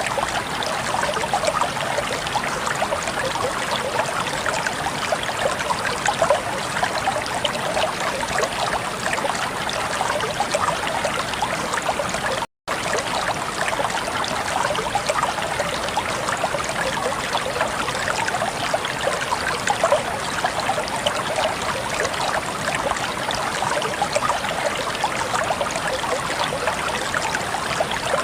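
Flowing water running steadily, a close, fine splashing and trickling. It cuts out completely for a split second about halfway through, then resumes unchanged.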